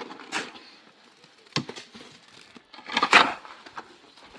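A few irregular knocks and scrapes from hand work on timber, the loudest a longer rasping scrape about three seconds in.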